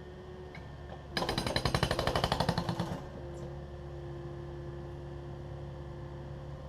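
Takeuchi TB260 excavator's diesel engine running steadily. About a second in, a rapid, even hammering of concrete bursts out for about two seconds and then stops, as the machine breaks up the garage floor.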